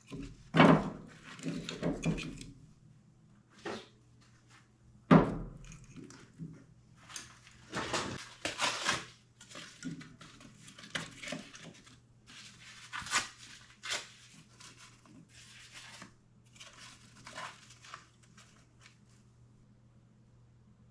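Things being handled: two loud thuds, one just after the start and one about five seconds in, then scattered scraping, rustling and light knocks that die away near the end.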